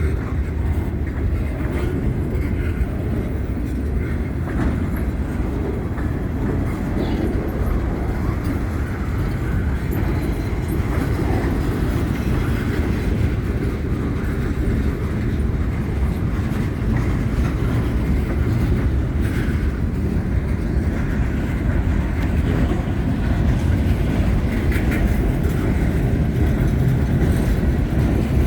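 Freight train cars rolling past on the rails: a steady, continuous rumble of wheels on track.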